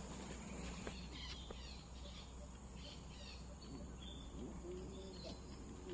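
Forest insects keeping up a steady high-pitched drone, with a few short bird chirps.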